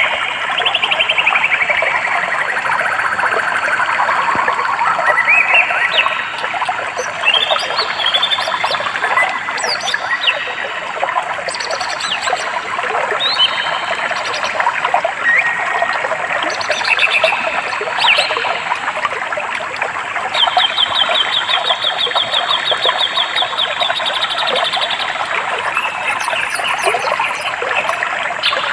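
Several songbirds chirping and whistling over steady running water, with one bird giving a long, rapid trill in the second half.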